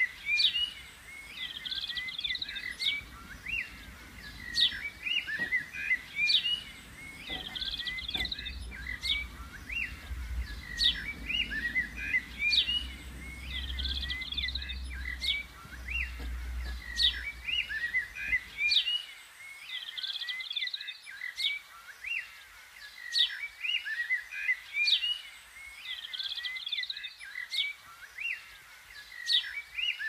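Garden songbird singing, repeating a short chirping phrase every few seconds, over a low rumble that stops about two-thirds of the way through.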